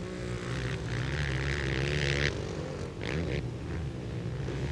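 Several racing quad (ATV) engines running laps on a dirt flat track, their pitch rising and falling as they rev. A louder rush of noise starts about a second in and lasts over a second, with a shorter one soon after.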